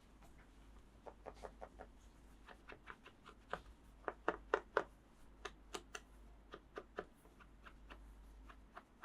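Toys being handled in an ASMR unboxing: an irregular run of light clicks and taps, busiest around the middle.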